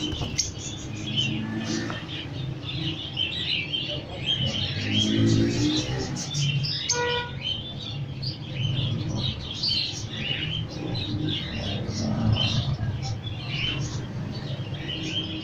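A flock of caged lovebirds chirping continuously, many short high chirps overlapping, over a steady low hum.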